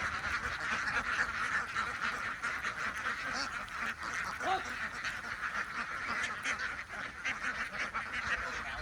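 A large flock of domestic ducks quacking all at once, a dense, continuous chorus of overlapping calls with no breaks.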